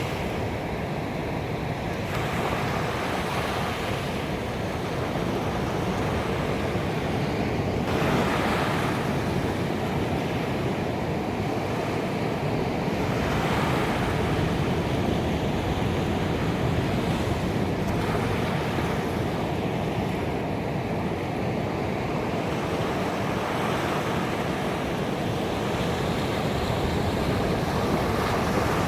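Ocean surf: waves breaking on a beach and washing back, the rush swelling every few seconds over a steady roar.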